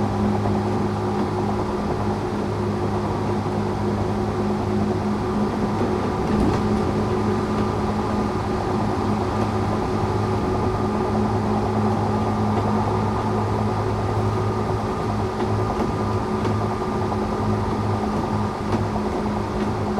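Tokyu 8500 series electric train running at a steady speed: a constant hum from its Toyo-made traction motors and gearing over the rolling noise of the wheels on the rails.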